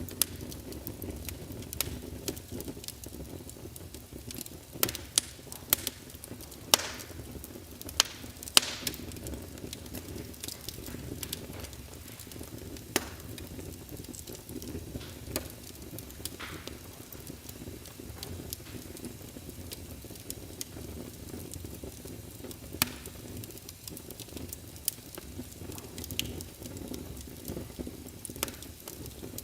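Wood fire crackling in a fireplace: a steady low rumble with irregular sharp pops and snaps, the loudest of them in the first ten seconds.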